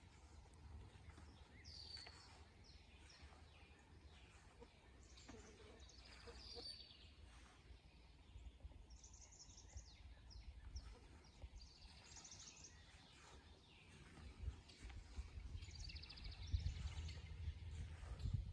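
Songbirds singing and calling faintly, with short chirps and several quick trills, over a low rumble that grows louder near the end.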